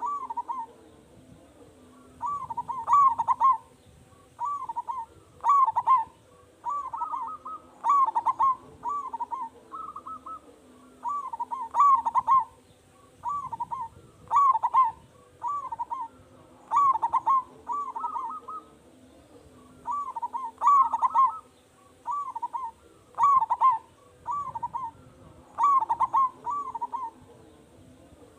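Zebra dove (perkutut) singing its cooing song: short phrases of several rolling notes, repeated about every two to three seconds.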